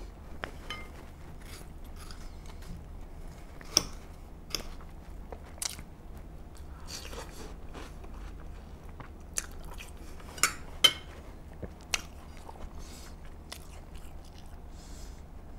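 Eating sounds: chewing and mouth noises as watermelon and fries are eaten, with scattered sharp clicks and taps of a fork against glass dishes. The loudest clicks come once about four seconds in and twice in quick succession about two-thirds of the way through.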